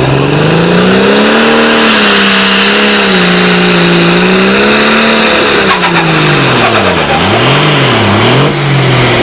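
Pulling tractor's engine running hard under load. Its pitch climbs over the first second or two, holds, then drops and recovers about three times near the end.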